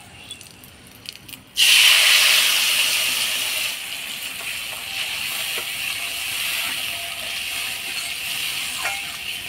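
Mustard paste going into hot oil in a kadai: a sudden loud sizzle about a second and a half in, easing over a couple of seconds into a steady sizzle as it fries, with a few light knocks of a spatula.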